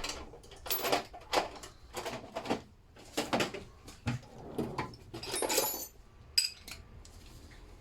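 Steel sockets and hand tools clinking and clattering as they are sorted through in a toolbox: a run of irregular knocks and rattles with a few short metallic rings, dying down about six seconds in.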